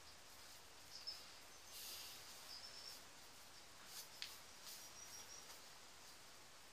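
Near silence: faint background hiss with a few faint, short, high-pitched bird chirps.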